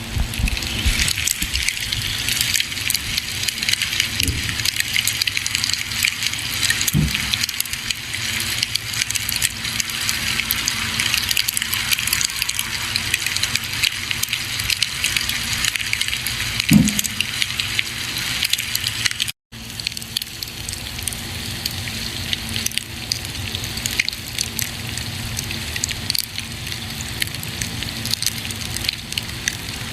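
Campfire burning with a steady hiss and many small crackles, with a few louder pops. The sound cuts out for an instant about two-thirds of the way through.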